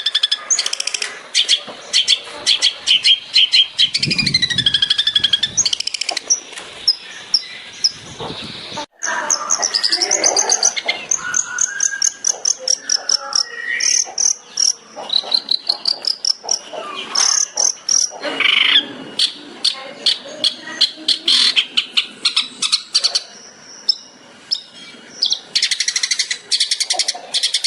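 Long-tailed shrike (cendet) singing a long, varied song: fast runs of sharp, chattering notes mixed with whistled phrases that glide up and down and quick trills.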